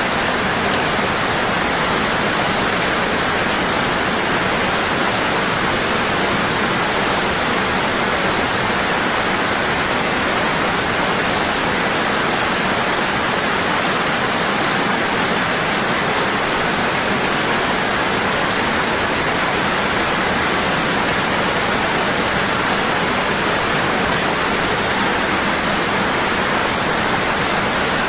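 Waterfall: water falling in a steady, constant rush with no change.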